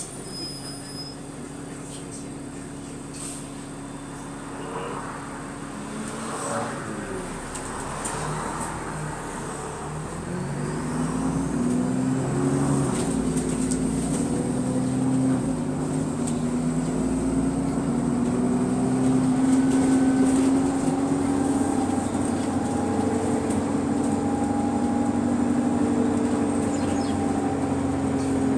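Bus engine heard from on board, first ticking over quietly. About ten seconds in it pulls away and gets louder, its pitch stepping up and down through gear changes before settling into a steady run. The bus has an exhaust leak.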